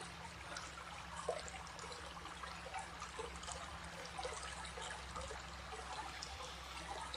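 Stream water trickling and flowing steadily over a low, constant hum.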